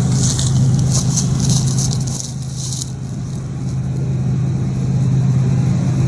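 Norfolk Southern diesel freight locomotive running, with a steady low engine drone. Crackling, rattling noise rides over it for the first three seconds or so, then drops away.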